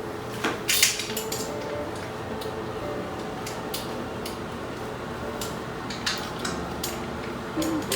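Scattered light clinks and sharp clicks, like household items being handled, over soft background music.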